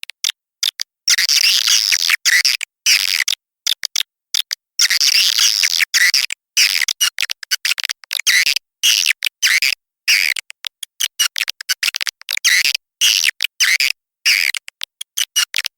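Edible-nest swiftlet twittering calls played as a swiftlet-house lure recording (suara panggil). Rapid high chirping comes in bursts that cut off abruptly into silence many times over, like an edited, looped track.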